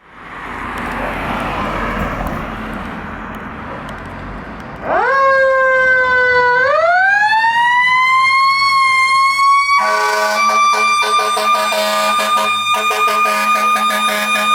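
Fire engine's siren starting about five seconds in after a few seconds of rushing noise. It sweeps up in pitch, dips briefly, then climbs again to a steady high wail. About ten seconds in, a lower, buzzier steady tone joins it.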